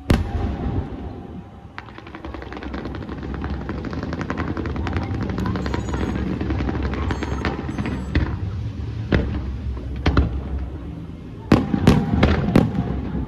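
Fireworks display. A loud burst at the start, then several seconds of dense rapid crackling, then a series of separate sharp shell bursts, coming thick and fast near the end.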